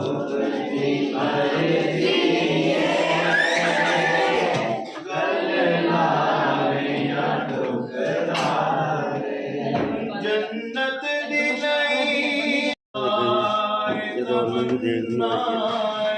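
A group of children chanting a religious recitation together in unison, as in a khatm. The sound drops out for a moment about three-quarters of the way through.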